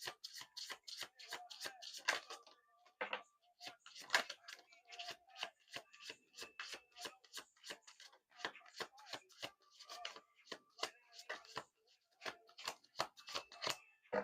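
A deck of cards being shuffled by hand: a quick, uneven run of papery clicks and flutters, several a second, with short pauses between runs.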